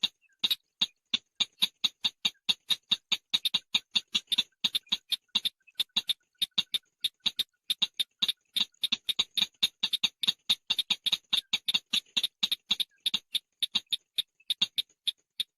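Chàng nghịch bird call: a long, rapid run of short, sharp clicking chips, about five to seven a second, slightly uneven in spacing and strength, briefly fainter about six seconds in.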